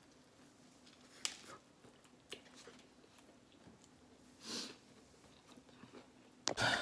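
Chewing and biting into a fried chicken sandwich, with a few sharp mouth clicks, a soft swell of noise about four and a half seconds in, and a louder burst near the end.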